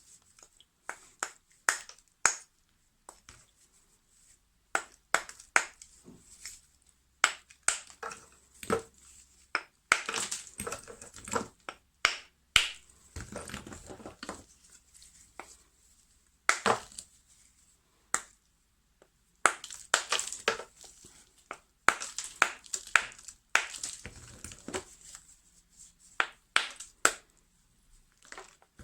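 Lumps of natural edible chalk crunching as they are bitten and chewed: sharp cracks at irregular intervals, with denser stretches of crumbly crunching.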